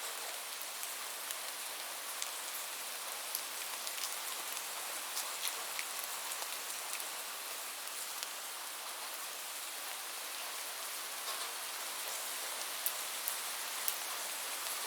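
Steady rainfall: an even hiss of rain with individual drops ticking on a hard surface, scattered throughout.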